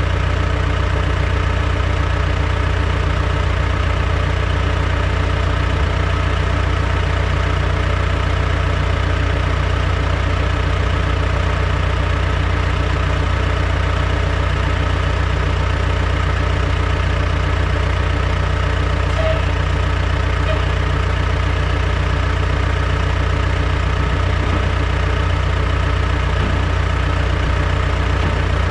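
Heavy construction machine's engine running steadily at a constant speed, a deep even hum with no revving.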